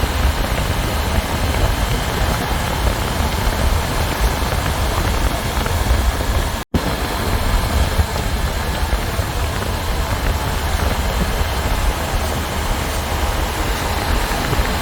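Wind rushing over the microphone on a moving motorcycle, with engine and road noise underneath: a steady, heavy rumble. It breaks off for an instant a little under halfway through.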